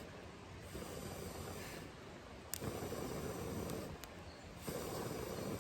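A person blowing on a weak, dying campfire in three long puffs with short pauses between them, and a sharp crackle or click in the gaps.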